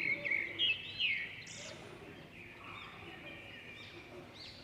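Small birds chirping in the background: a run of short, high chirps, loudest in the first second or so, then fainter ones continuing.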